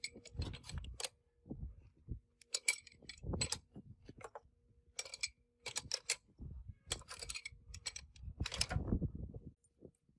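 Irregular metallic clinking and knocking of metal parts being handled and worked with hand tools, busiest and loudest just before it stops near the end. A faint steady hum runs underneath.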